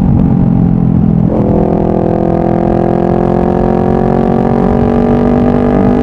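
Honda CBR500R's parallel-twin engine through a Yoshimura full exhaust, pulling under load. The note breaks about a second and a half in, as at a gear change, then climbs steadily as the bike accelerates.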